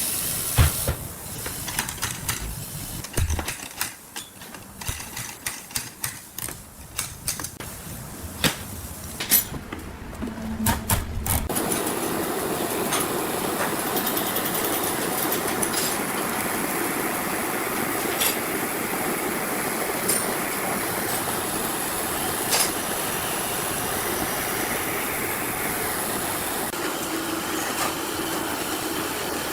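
A run of irregular knocks and clicks, then a machine starts running steadily about eleven seconds in and keeps going evenly.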